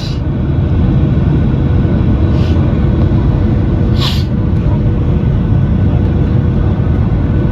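Steady low rumble of engine and airflow noise inside the cabin of a Boeing 737-800 with CFM56-7B engines, descending on approach. A few short hisses sound briefly on top of it.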